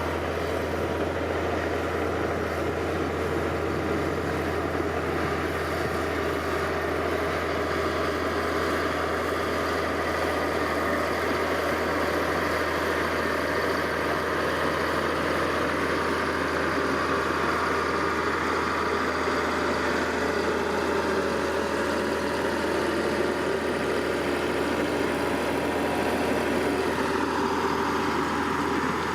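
Heavy diesel engine of earth-moving machinery running steadily with a deep, even drone; its tone shifts slightly near the end.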